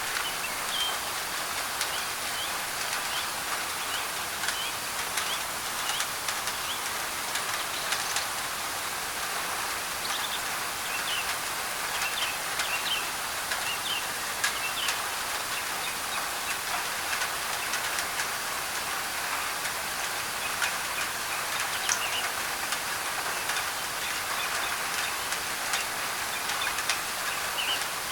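Steady rain on a thin tin roof, with sharp drop clicks, under a layer of white noise. Birds chirp now and then, most often in the middle.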